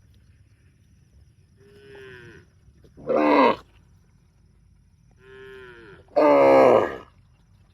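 Cow mooing twice, each moo opening with a quieter, falling note and then breaking into a loud, full call.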